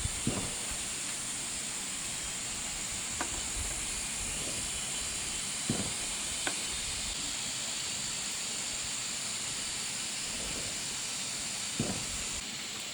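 Steady high-pitched hiss with about five short, scattered knocks, the sound of bamboo being worked by hand.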